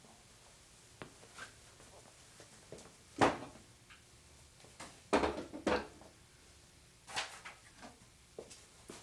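Objects being handled and set down: a series of knocks and clunks. The loudest comes about three seconds in, with a quick cluster around five to six seconds in.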